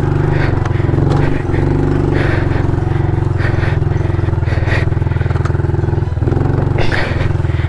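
Honda CRF110 pit bike's small air-cooled single-cylinder four-stroke engine running steadily at nearly constant revs, briefly easing off about six seconds in. Short knocks and clatter from the bike run through it.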